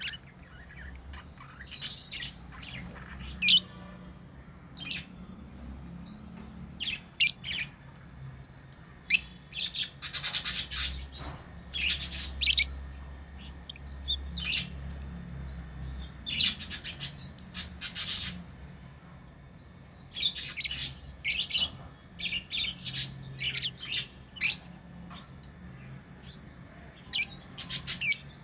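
Pet lovebirds chirping: short, high, sharp chirps in irregular bursts, some of them quick rapid runs, with brief pauses between.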